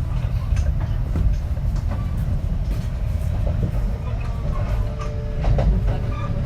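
Onboard running sound of a Kintetsu 3220 series electric train: a steady low rumble of wheels on rail with scattered clicks. A faint steady tone joins about five seconds in.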